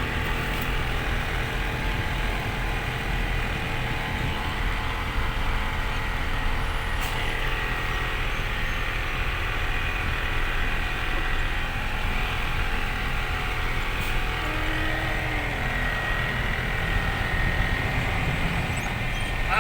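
Truck engine running steadily, a constant low rumble.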